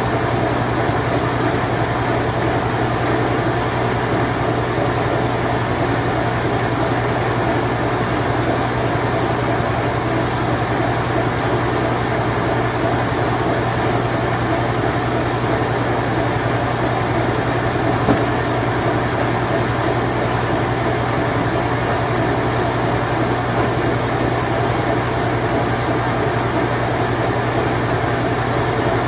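Late-1980s Whirlpool Imperial Clean Touch top-load washing machine running its spin cycle: a steady, unchanging hum with a constant whir of the spinning drum. A single light tick about eighteen seconds in.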